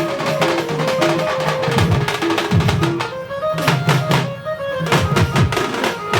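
Odia melody-band music in the Karmi (Karma folk) style: hand drums and percussion beating a fast rhythm under a melody of short held notes. The drums thin out briefly about three seconds in, then return.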